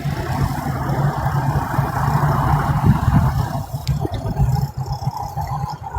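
Road vehicle noise: a low rumble throughout, with a rushing sound of tyres and engine that dies away about halfway through.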